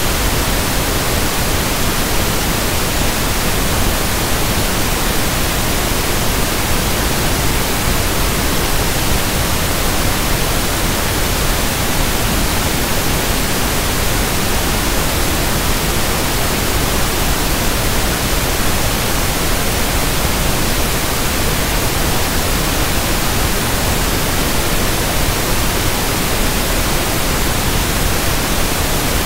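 Steady synthetic pink noise (1/f noise): an even, unchanging hiss spread across the whole range from deep bass to treble.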